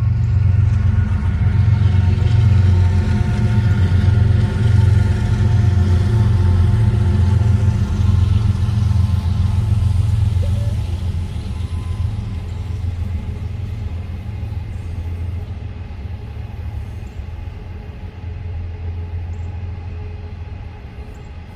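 Freight train of container cars rolling past on the rails: a steady low rumble that fades gradually over the second half.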